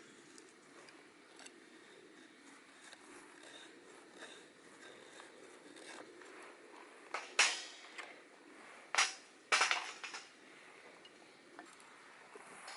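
A few sharp knocks against a faint steady background: a pair about seven seconds in and another pair about nine to ten seconds in.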